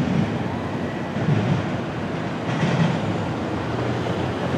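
Double-stack intermodal container cars of a freight train rolling along the rails: a steady rumble of steel wheels on track.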